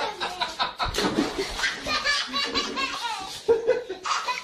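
People laughing hard, in chuckles and snickers.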